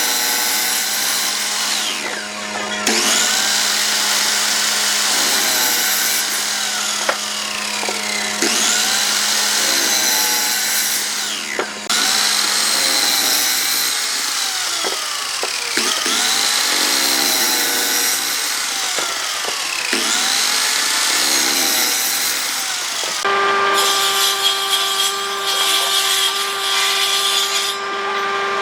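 Handheld electric power tool working wood in repeated passes. Its motor pitch dips under load and recovers about every three seconds, and from about 23 seconds it runs at a steadier pitch.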